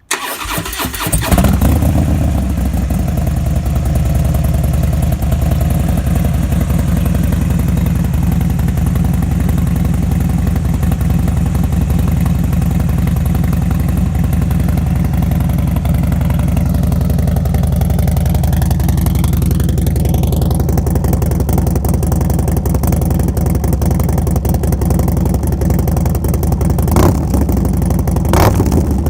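2017 Harley-Davidson Dyna Low Rider S's 110 cubic inch V-twin starting up through a Vance & Hines Pro Pipe 2-into-1 exhaust, then running at a steady, deep idle. Two short sharp bursts come near the end.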